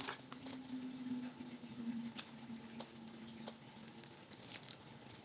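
Plastic instant-noodle seasoning sachets being handled and sprinkled out: light crinkling and scattered small ticks. A faint low hum runs under the first four seconds.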